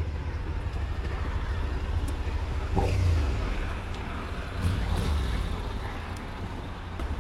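Motorcycle on the move in traffic: a steady low engine and road rumble with wind noise, growing louder twice, about three seconds and five seconds in.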